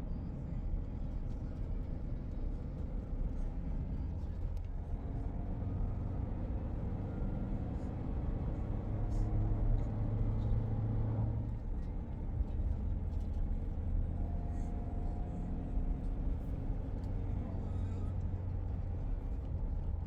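A motor vehicle engine running with a steady low rumble, its pitch shifting a little and dropping about halfway through.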